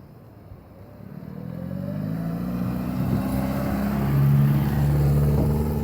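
A vehicle's engine drawing near, growing steadily louder from about a second in, with its pitch rising a little as it comes.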